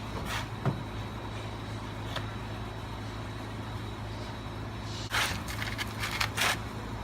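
Car engine idling with a steady low hum, with a sharp click about a second in and a few brief rustling, clattering noises near the end.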